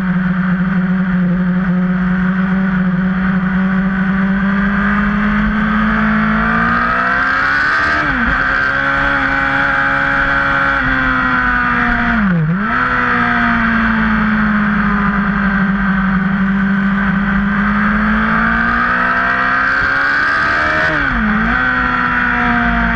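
Sportbike engine running at high revs at track speed, heard from on board with wind rushing past the microphone. The engine note holds steady, climbs, and dips sharply three times as gears change.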